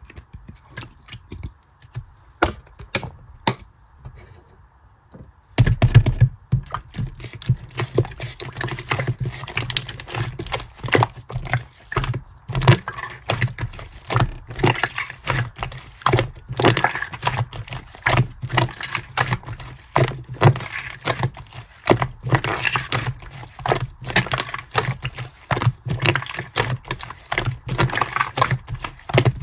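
Sky-blue clear slime being squished and mixed by hand, giving quick wet clicks and pops. The clicks are sparse and softer at first, then come thick and louder from about five and a half seconds in.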